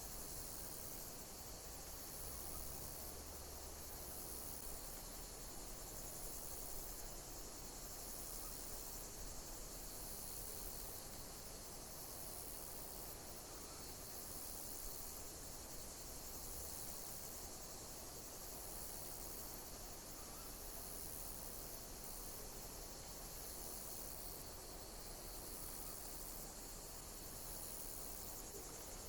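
Chorus of insects chirping: a steady high trill with a higher chirp repeating about every one and a half to two seconds.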